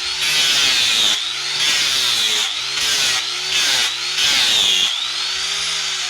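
Angle grinder working wood in repeated passes: the motor's whine drops in pitch each time the disc bites into the wood with a loud rasping grind, and rises again as it lifts off, about five times.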